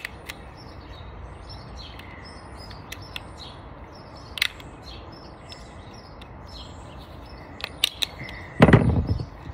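Small birds chirping repeatedly, with a few light clicks of a flathead screwdriver prying at a Dyson V8 brush-roll part. Near the end comes a louder scraping rustle lasting about a second as the piece comes free.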